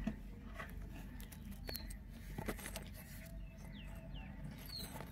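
A few faint, short high bird chirps, two of them falling in pitch, among scattered light clicks over a steady low hum.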